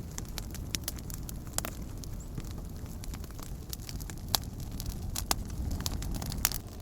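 Wood campfire crackling: irregular sharp pops and snaps, a few louder ones in the second half, over a steady low rumble.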